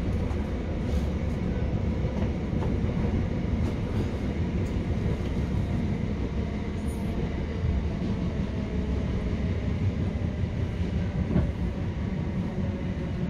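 Passenger train running along the line, heard from inside the carriage: a steady low rumble of wheels on rail, with a few faint clicks.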